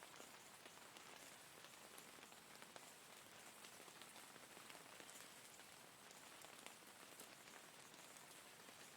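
Faint steady rain, an even hiss with many separate drops ticking through it.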